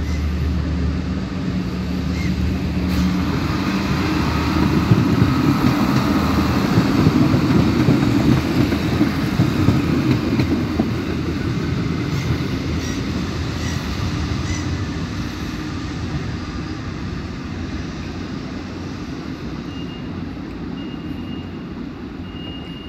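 Historic diesel railcar train running past on station tracks: the drone of its engines and wheel noise build up, pass and slowly fade away. There are a few sharp clicks about midway.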